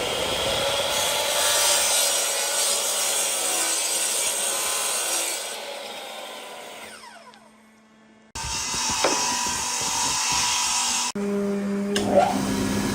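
Power saw cutting wood, then winding down with a falling pitch about seven seconds in; after a brief gap, tool noise on wood starts again abruptly.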